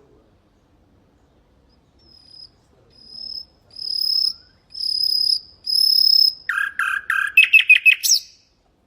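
Common nightingale singing one phrase. After a pause, a series of long, pure, high whistles swells louder, then a quick run of lower, harsher notes speeds up into a rapid trill and stops abruptly.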